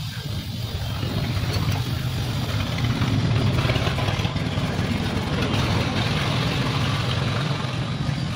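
Mahindra Bolero pickup's diesel engine idling steadily, growing a little louder a few seconds in.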